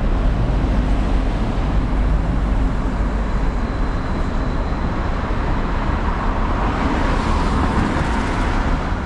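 Steady vehicle and traffic noise with a heavy low rumble.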